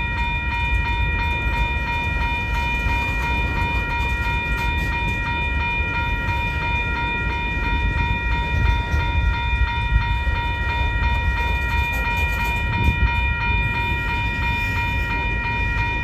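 Train rolling by with a steady low rumble and a constant high-pitched squeal over it.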